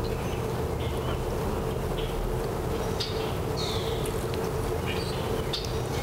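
Birds chirping and calling in short, scattered high notes over a steady low rumble and hum.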